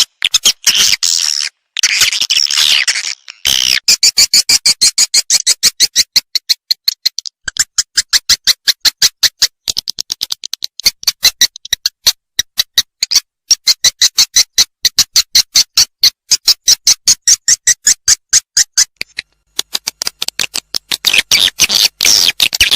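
Swiftlet lure call recording played for swiftlet farming: high, fast twittering chirps, settling into an even run of short clicking chirps about five a second, then twittering again near the end.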